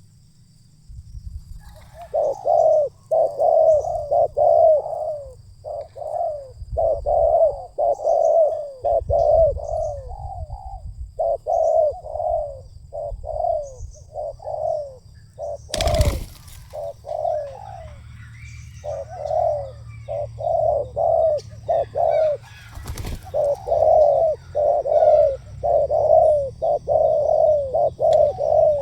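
Spotted dove (tekukur) cooing, a rapid run of repeated coo phrases that pauses briefly and starts again. Two sharp knocks cut in, about halfway through and again some seven seconds later.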